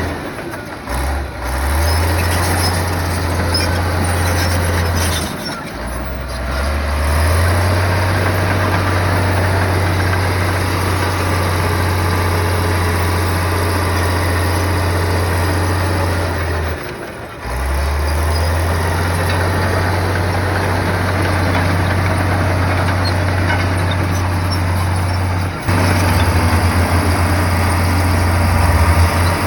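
Heavy bulldozer's diesel engine running steadily with a deep hum. The engine sound drops off briefly and picks up again near the start, about five seconds in and about seventeen seconds in, and takes on a pulsing beat near the end.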